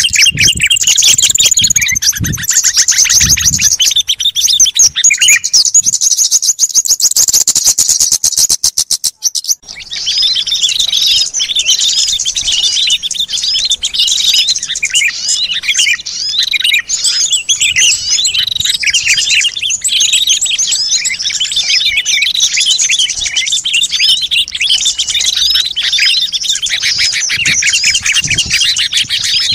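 Bird-lure recording of small birds calling busily. It opens with a fast, evenly repeated chatter, breaks off briefly about nine seconds in, then gives way to a dense chorus of many overlapping chirps and twitters.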